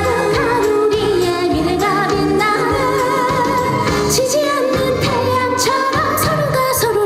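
A woman singing an upbeat trot song live into a microphone over a band accompaniment with bass and a steady drum beat, with vibrato on her held notes.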